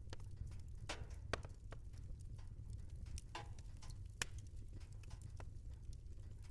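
Wood fire crackling in a fireplace: irregular sharp pops and ticks over a low steady rumble, with two louder snaps about a second in and about four seconds in.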